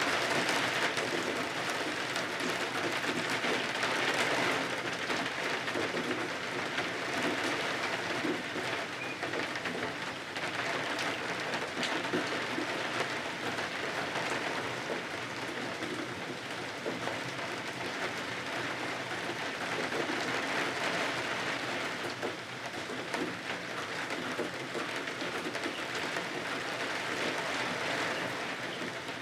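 Steady rain pattering on windows: a dense, even hiss with fine scattered drop ticks.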